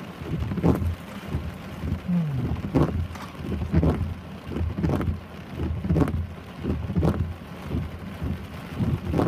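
Heavy rain falling, with repeated low thumps about once a second over the steady noise.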